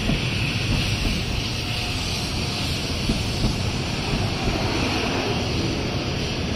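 An N700-series Shinkansen train moving along the platform, its running noise a steady rushing rumble with no distinct tones or knocks.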